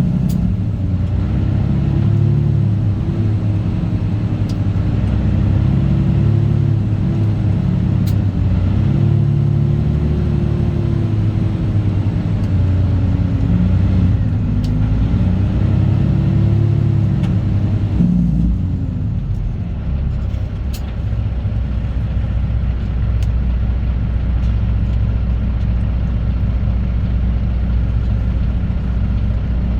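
Straight-piped Cat C15 Acert inline-six diesel in a Kenworth W900 running, its pitch rising and falling again and again. About eighteen seconds in it drops to a lower, steady rumble.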